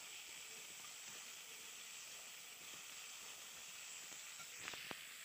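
Chopped onion and tomato sizzling faintly in oil in a kadai as they are lightly fried with salt to soften them. A couple of small clicks come near the end.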